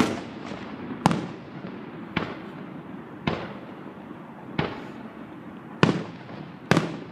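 Aerial firework shells bursting in a display: about seven sharp bangs, roughly one a second, each trailing off in a rolling echo.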